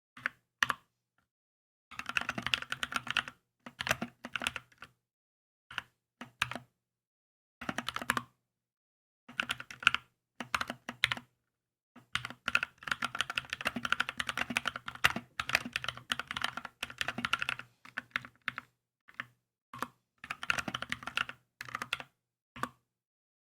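Typing on a Keychron K2 mechanical keyboard: short bursts of key clicks with pauses between them, then a longer run of steady fast typing.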